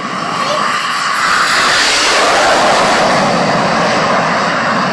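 Learjet business jet's engines as it passes low: a loud rushing jet noise that builds to its loudest about two seconds in and then stays loud.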